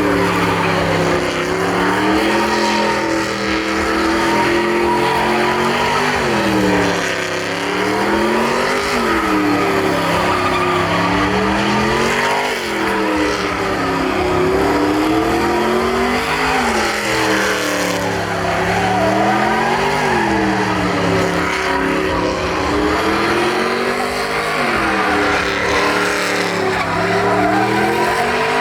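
A truck engine revving up and down again and again, every few seconds, while its spinning tyres squeal and hiss on the pavement in a burnout.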